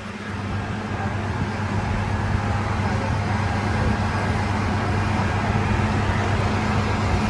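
A large vehicle's engine running steadily with a low hum, over city street traffic noise, growing louder over the first couple of seconds and then holding steady.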